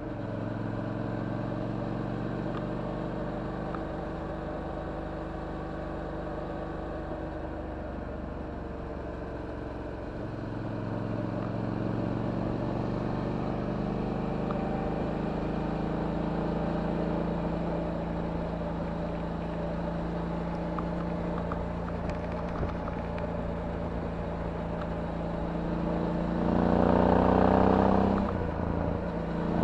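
Suzuki V-Strom 650's 90° V-twin engine through a titanium Akrapovic exhaust, heard from on the bike while riding. It runs at a steady cruise, its note stepping to a different pitch about ten seconds in. Near the end it rises and grows louder under acceleration, with a brief drop in between.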